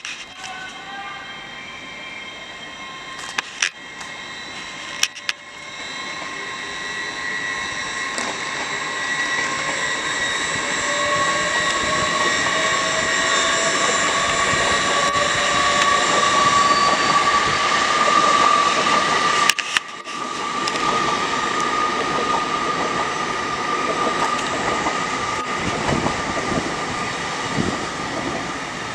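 Hitachi Class 800 Azuma train running past, its motors giving several whining tones that slowly rise in pitch over a growing rumble of wheels on rail. The sound is loudest about two-thirds of the way through. A few sharp clicks come in the first seconds, and one more a little after the middle.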